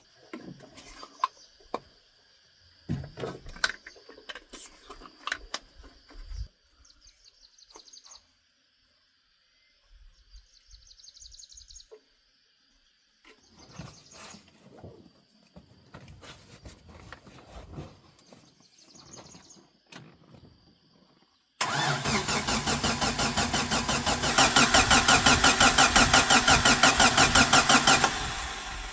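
Car engine being started: after scattered clicks and knocks, it starts suddenly about two-thirds of the way in with a fast, even pulsing, gets louder a couple of seconds later, then dies away just before the end. Insects buzz steadily throughout.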